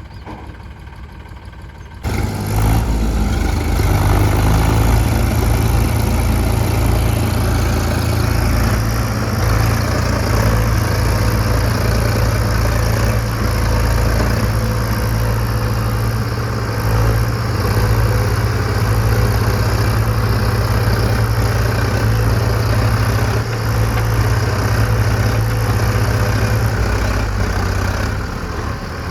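Diesel tractor engine running hard under load while pulling a mud-stuck tractor free: a loud, steady, deep engine drone that jumps up sharply about two seconds in and holds, easing slightly near the end.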